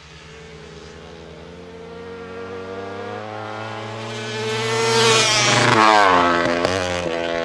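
250cc flat track racing motorcycles under hard throttle, coming closer with their engine note growing louder and rising, then passing by with the pitch dropping, loudest about six seconds in.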